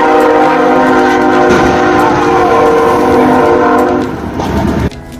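Approaching train's multi-note air horn sounding one long, steady warning blast, with the train's running noise underneath; the horn stops about four seconds in.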